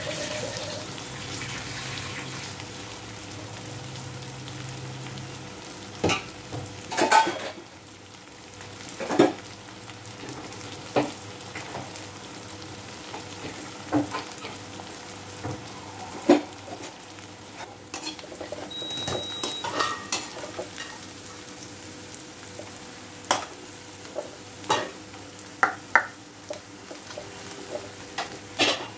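Sliced onions frying in oil in a black iron kadhai, with a steady sizzle. After about six seconds a metal slotted spoon knocks and scrapes against the pan every second or two as they are stirred.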